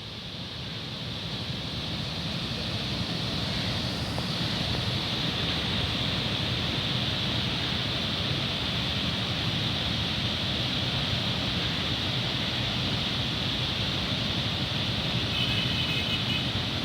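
Canal water rushing, a steady, even noise that fades in over the first couple of seconds. A brief high chirp comes near the end.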